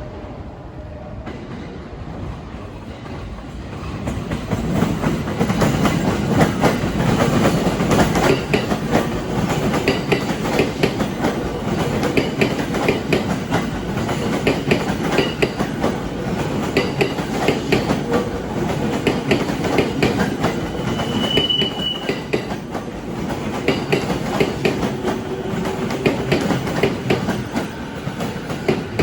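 Sobu Line electric commuter train passing, its wheels clacking steadily over the rail joints above a low rumble, louder from about four seconds in. A brief high squeal about three-quarters of the way through.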